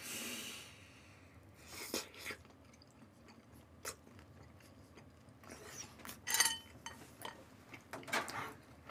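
Close, quiet chewing of a bite from a sausage and rice-cake skewer (sotteok-sotteok): a short noisy bite at the start, then soft wet mouth sounds and small clicks. Near the end comes a light clink as the skewer is laid in a ceramic bowl.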